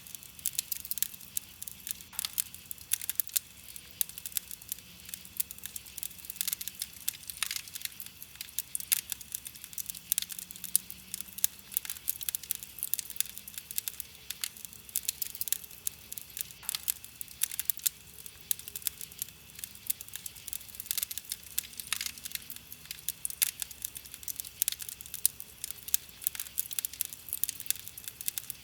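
Wood campfire crackling: irregular sharp pops and snaps, several a second, over a steady hiss of burning wood.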